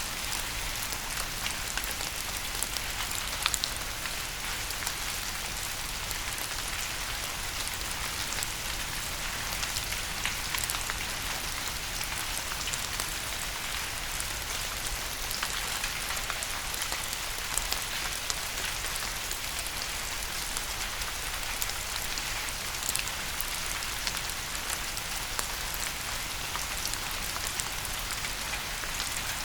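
Steady rain falling on a surface: an even hiss with scattered sharper drop ticks, a couple of louder ones about three and a half seconds in.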